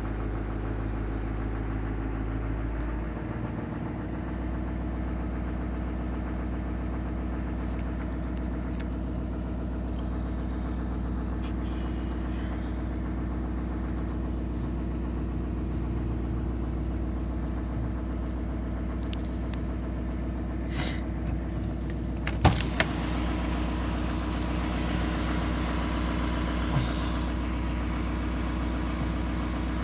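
2012 Chevy Duramax 6.6-litre V8 turbodiesel idling steadily after a cold start at 30°F, its idle note shifting about three seconds in. A few sharp clicks sound about two thirds of the way through.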